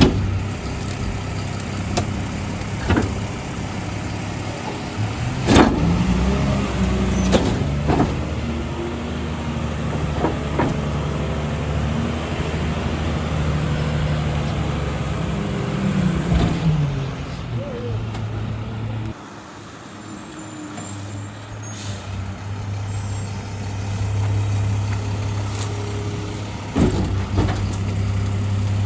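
Garbage truck's engine revving up about five seconds in and holding high for some ten seconds while the packer compacts Christmas trees, with sharp cracks and knocks from the trees being crushed, then dropping back to idle. A short hiss of air and a few more knocks come near the end.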